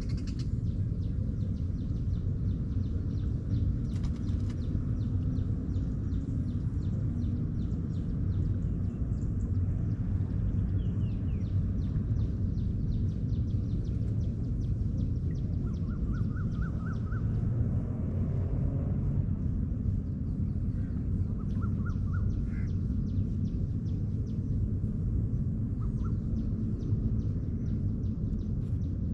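Steady low rumble with birds chirping now and then in short runs of quick repeated notes, over a fast, faint high ticking.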